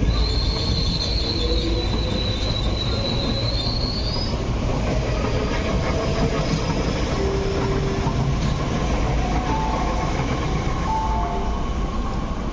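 MTR East Rail Line Metro-Cammell electric train running along the platform with a steady rumble of wheels on rail. Its wheels squeal in a high, steady tone for about the first four seconds, the squeal rising slightly before it stops.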